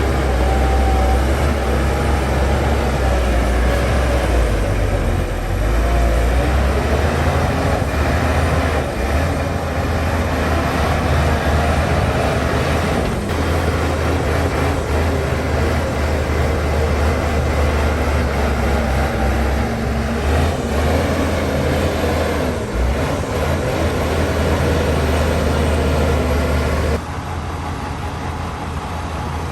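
Diesel engine of heavy earthmoving machinery running steadily, with a deep, even low drone. The sound drops off abruptly about 27 seconds in.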